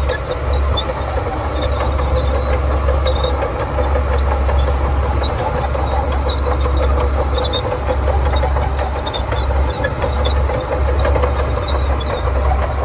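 Shantui DH17C2 bulldozer's diesel engine running steadily under work, with short high squeaks now and then.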